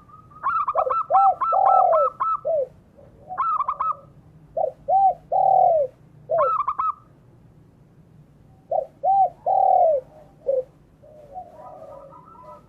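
Dove cooing in three phrases, each a quick run of short high notes followed by rounder, lower coos. Fainter chirping from another bird comes in near the end.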